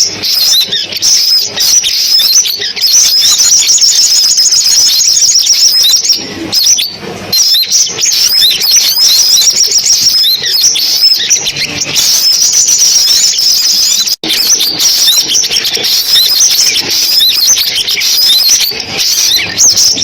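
Sunbirds calling: a dense, continuous stream of rapid high-pitched chirps and twittering trills, a recorded lure call. A brief cut-out about 14 seconds in breaks it for an instant.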